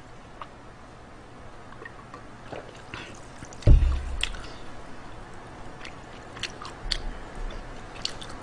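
Close-miked eating sounds: soft chewing with scattered small clicks, and a dull thump about three and a half seconds in, the loudest sound.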